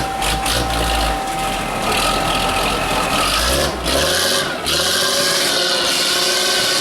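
Trial truck engine running under load, rising in revs about halfway through. From then on a steady whine sits over the engine.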